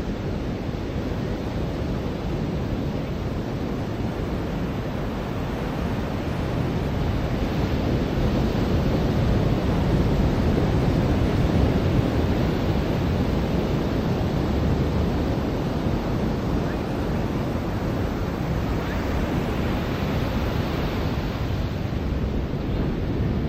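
Ocean surf washing onto the shore, a continuous rush of noise that swells louder about a third of the way in and again near the end as waves break.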